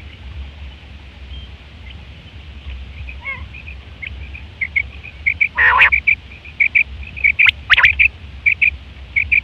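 Quail calling: a quick series of short, high chirps, often in pairs or threes, with two louder, harsher calls about two seconds apart near the middle.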